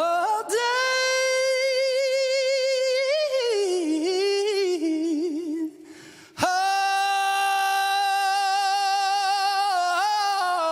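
Lead vocalist singing long, held, wavering notes with little or no accompaniment, in two phrases split by a short breath about six seconds in.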